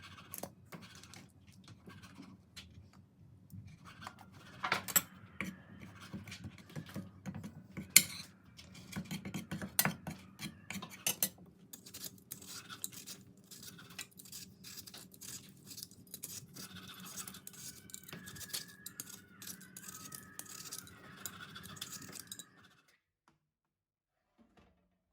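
Small objects being handled: irregular clicks, knocks and scraping, with a few louder knocks in the first half, stopping abruptly near the end.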